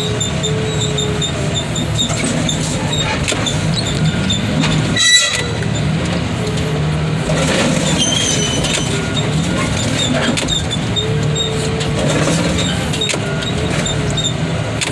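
Car crusher at work: a steady engine drone under long, wavering squeals, with a sharp bang about five seconds in.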